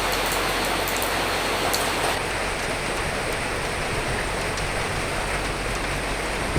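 Steady rainfall, an even hiss with a few sharp drop ticks in the first couple of seconds.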